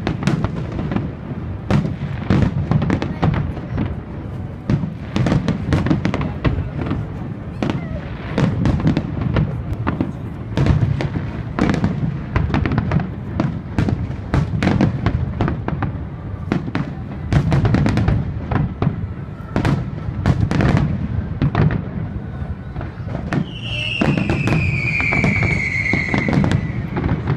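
Aerial fireworks display going off continuously: a dense run of sharp bangs and crackling over a steady low rumble. Near the end, a falling whistle sounds over the bursts for a couple of seconds.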